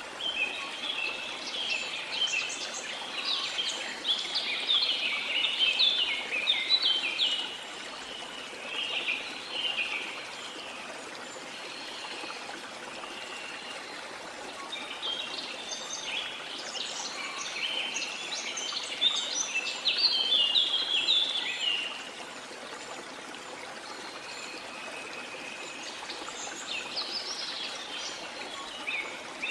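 Birds chirping and singing in quick, busy phrases over a steady rush of falling water; the birdsong comes in two long bouts and picks up again near the end.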